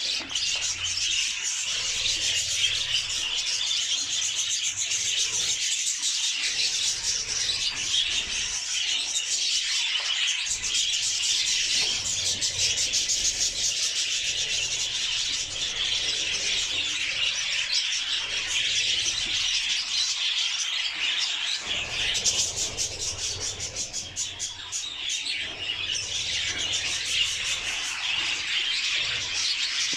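Budgerigars chattering and warbling in a continuous stream of rapid high chirps.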